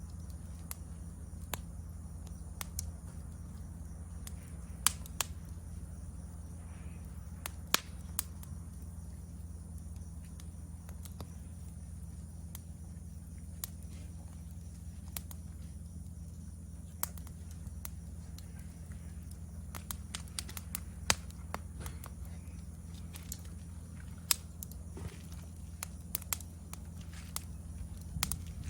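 Wood campfire crackling, with scattered sharp pops, over a steady high chirring of insects.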